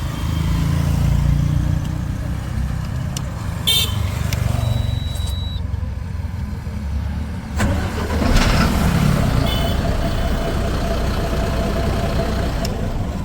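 BharatBenz truck's diesel engine running steadily, with a brief louder surge about eight seconds in.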